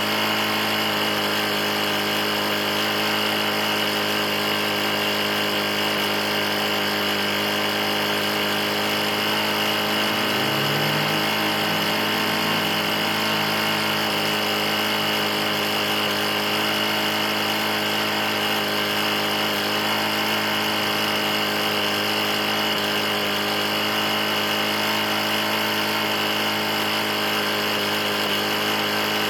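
Briggs & Stratton E450 single-cylinder engine on a push mower running steadily at a constant speed. The owner describes it as knocking badly; it had been run nearly out of oil.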